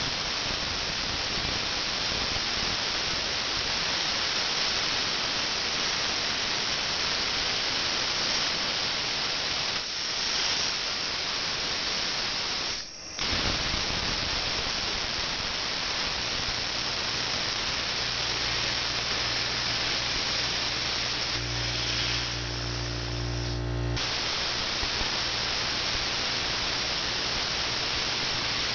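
Plasma cutter torch hissing steadily as it cuts steel, its arc and air stream cutting out for a moment about 13 seconds in and then resuming. A low electrical hum joins about halfway through.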